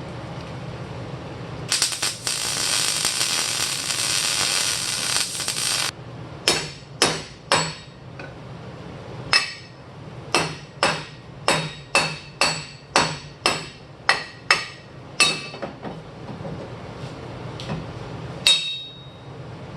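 A few seconds of steady welding hiss that cuts off abruptly, followed by a run of about fifteen hammer blows on steel, roughly two a second, each ringing briefly, as a steel reinforcing plate is worked onto a cracked vehicle frame.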